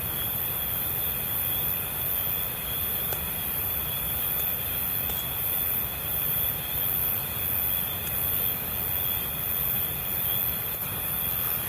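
Crickets and other night insects trilling steadily at a high pitch, with a faint gentle pulse, over a low steady rumble.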